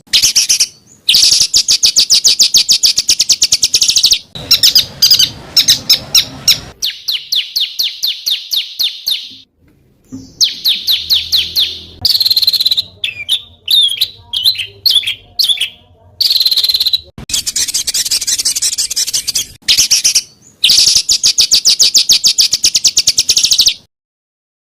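Small songbirds singing harsh, rapid-fire trills: dense runs of sharp repeated high notes in several phrases, each cut off suddenly before the next begins, typical of the 'tembakan kasar' song used to train competition birds.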